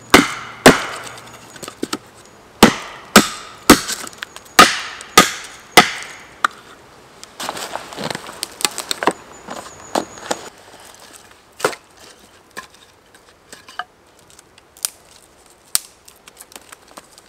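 Wood being chopped or split: a run of about eight sharp, cracking blows in the first six seconds, then quieter rustling of handled wood and a few light knocks.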